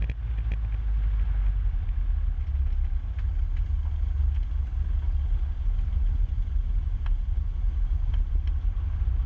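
Cessna 150's four-cylinder Continental O-200 engine running steadily during the pre-takeoff run-up checks, a low drone heard through the aircraft's headset intercom feed. A few faint clicks sound over it.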